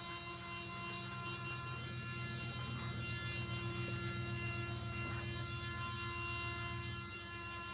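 Ryobi high-volume inflator running steadily as a blower, its fan motor giving a steady hum with a whine of several even tones above it.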